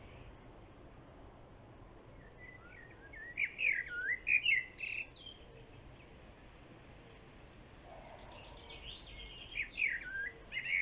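A songbird singing two quick, varied warbling phrases, one about three seconds in and another near the end, over a faint steady hiss.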